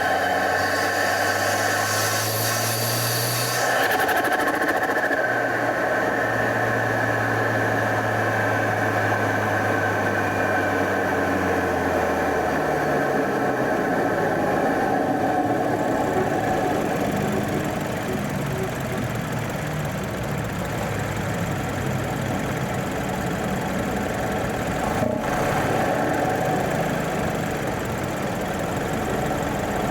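BMW 328i's N20 turbocharged 2.0-litre four-cylinder, breathing through an aftermarket open intake, running as the car is driven. Its steady note falls away about twelve seconds in as the car slows, and it runs on at a lower, idle-like drone.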